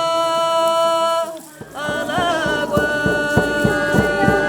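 Singing on long held notes. About one and a half seconds in, a drum comes in beating a steady rhythm of about four strokes a second under the next held note.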